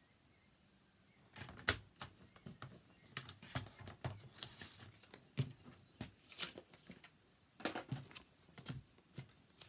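Card stock being scored on a paper trimmer and handled on the desk: after about a second of quiet, an irregular run of clicks, taps and short scrapes.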